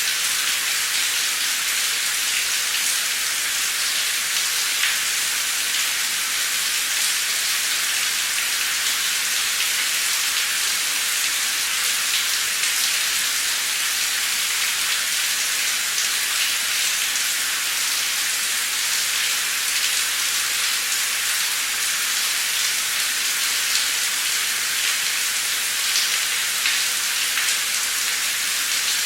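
Heavy, torrential rain pouring steadily, a dense hiss of drops with scattered individual drop ticks.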